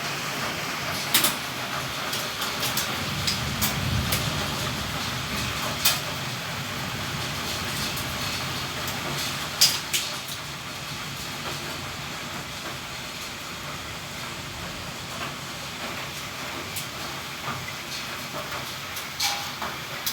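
Heavy rain pouring down in a steady hiss, with a few sharp knocks on top, the loudest about a second in and near ten seconds in.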